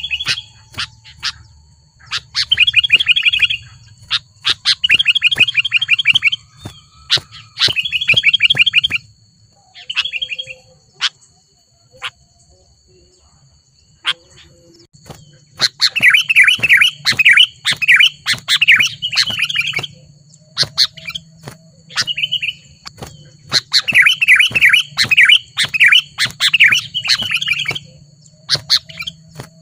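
Sooty-headed bulbuls (kutilang) giving rapid chattering call bursts of about a second each, again and again. About nine seconds in the calling thins to a few short notes, then dense chattering resumes after a few seconds.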